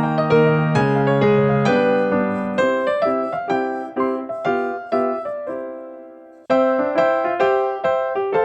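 Background piano music: a melody of struck notes, each dying away. It fades out about six seconds in and starts again half a second later.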